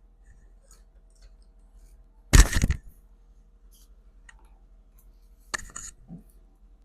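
Manual sewing machine run briefly by hand to test its newly fitted feed dogs: a short burst of mechanical clatter, then a second, lighter burst of rapid clicks a few seconds later.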